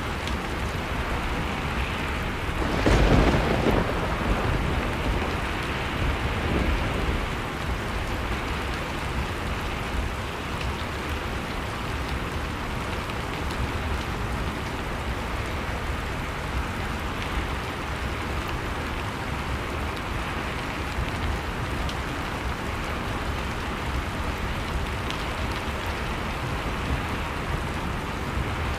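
Blizzard-and-fireplace ambience: a steady bed of wood-fire crackle and storm wind. One louder rush, about a second long, comes about three seconds in, and a smaller one near seven seconds.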